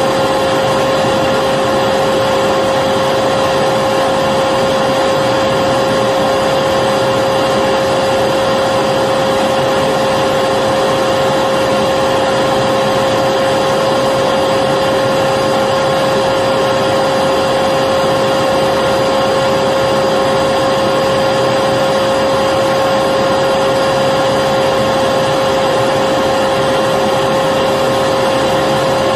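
Electric vacuum cleaner running steadily, a constant rush of air with an unchanging motor whine.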